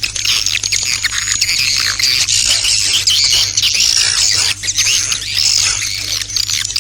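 Swiftlet lure-call recording: a dense, unbroken chorus of many swiftlets twittering and chirping, the kind played to attract swiftlets to a nesting house. A steady low hum runs underneath.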